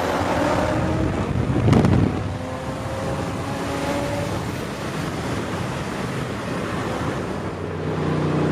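Car running at speed with heavy wind rushing over the microphone and faint engine drone, with a brief loud thump about two seconds in.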